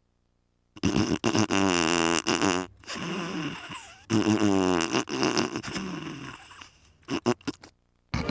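Two long, low vocal sounds, like groans, each about two seconds with the pitch sliding downward, followed by a few short clicks near the end.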